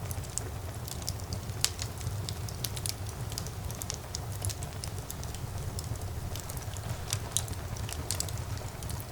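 Wood fire burning in a fireplace: a steady low rumble of flames with frequent irregular crackles and pops, one sharper pop about one and a half seconds in.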